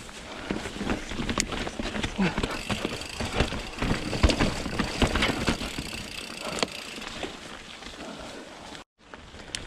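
Mountain bike on Pirelli Scorpion tyres riding over wet rocky singletrack: tyre noise with a quick string of knocks and rattles as the bike goes over rocks and roots. It is busiest in the first two-thirds, eases off, and the sound cuts out briefly near the end.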